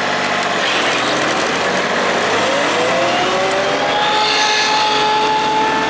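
Kubota D1105 three-cylinder diesel on a Madvac ride-on vacuum revving up from idle. A whine rises in pitch about two seconds in and levels off about four seconds in.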